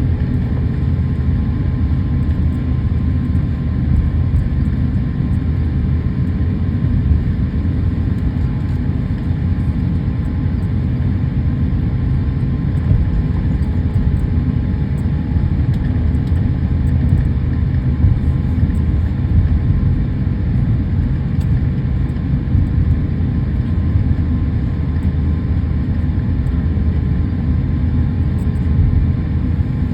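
Steady low rumble inside a jet airliner's cabin as it taxis on the ground after landing: engines at low power and the wheels rolling.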